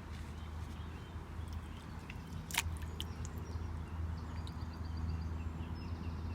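Outdoor ambience: a steady low rumble with a few sharp clicks, the loudest about two and a half seconds in, and faint bird chirps.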